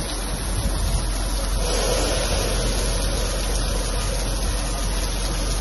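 Rain falling steadily, an even hiss with a constant low rumble underneath.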